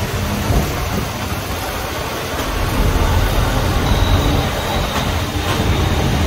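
Road traffic with heavy-vehicle engines, a loud steady low rumble.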